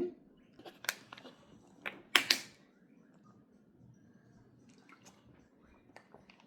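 A few short, sharp knocks and clicks, the loudest about two seconds in, followed by faint room tone with an occasional small tick.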